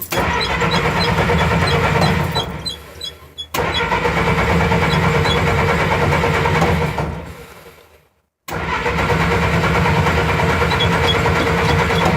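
A 1955 Willys CJ-5's four-cylinder F-head engine being cranked by its starter in three long bursts with short pauses between them. It is a cold start after weeks of sitting, and the engine does not catch.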